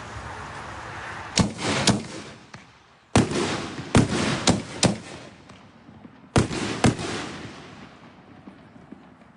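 Neon Viper 60-gram reloadable canister shells being fired: about eight sharp bangs spread over some six seconds, several coming in close pairs, each trailing off.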